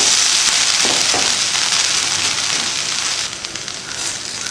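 Dosa batter and ghee sizzling on a hot tawa; the hiss starts suddenly and slowly dies down.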